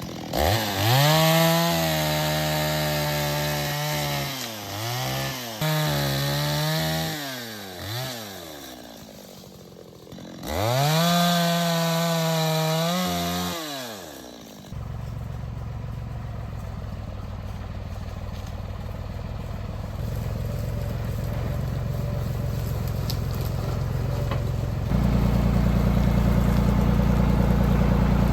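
Chainsaw at high revs cutting small trees, its pitch dipping and rising as it bites, in two runs with a short drop between them about 9 to 10 seconds in; it cuts off about 14 seconds in. A lower, steady engine then runs idling, as from the tractor, stepping up louder about 25 seconds in.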